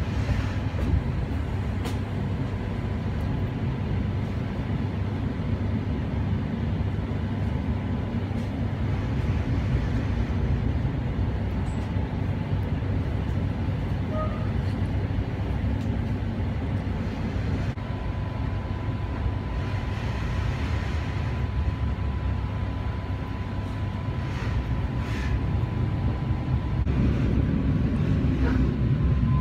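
A regional passenger train running, heard from inside the carriage: a steady low rumble of wheels on rails with a thin steady whine and a few faint clicks. The rumble grows louder near the end as the train runs into a covered station.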